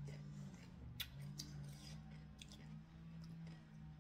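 Quiet eating sounds: chewing with a few small, sharp clicks and smacks scattered through, over a steady low hum.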